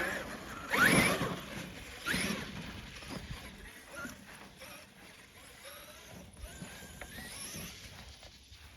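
Traxxas X-Maxx RC monster truck's brushless electric motor whining up in two quick bursts of throttle, about a second and two seconds in, with tyre and chassis noise on rough ground. The sound then fades as the truck moves off, leaving scattered small knocks.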